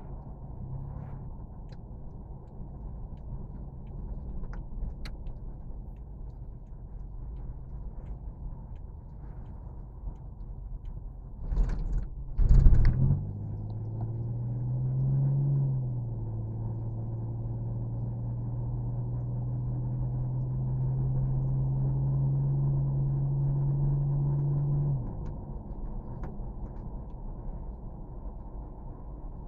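Low rumble of a vehicle. About twelve seconds in come two loud knocks, then a steady low hum that rises briefly in pitch and holds for about ten seconds before stopping.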